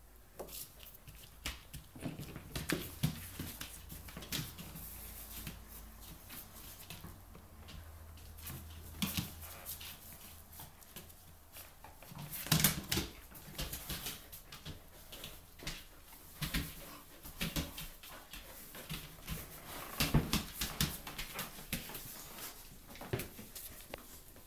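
A chow chow and a Samoyed play-fighting: irregular scuffling and knocking of paws on the floor, mixed with dog noises, in clusters loudest about halfway through and again near the end.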